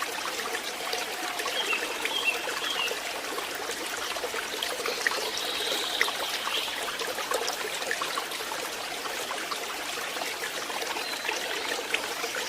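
Water of a small forest stream trickling and splashing over stones, a steady rush dotted with small droplet ticks.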